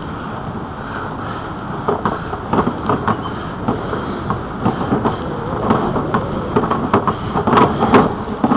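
Bicycle riding along a paved trail: a steady rush of tyre and wind noise, with irregular clicks and rattles from about two seconds in that grow louder near the end.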